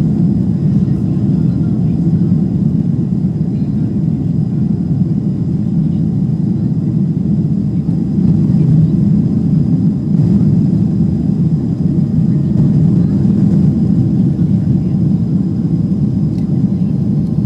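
Steady low rumble of a Boeing 767-300ER's engines and rushing air, heard from inside the passenger cabin.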